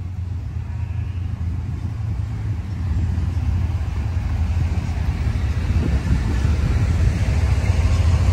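A car engine running with a steady low rumble that grows gradually louder.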